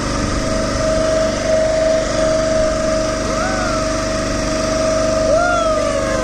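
Boat motor running steadily with a held mechanical whine, and two short rising-then-falling tones over it about two seconds apart.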